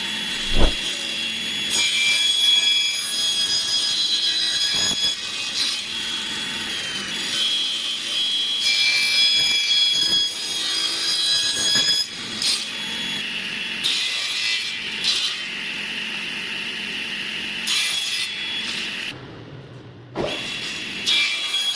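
A high-speed power tool whining steadily as it works wood, its pitch dipping now and then under load. There is a sharp knock about half a second in, and the tool goes quiet briefly near the end.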